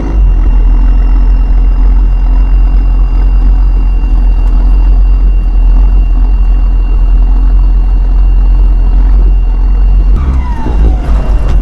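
Turbocharged diesel engine of a 5-ton military truck, running loud under way with a high turbo whine over its drone. About ten seconds in, a whine falls steeply in pitch and the engine note changes.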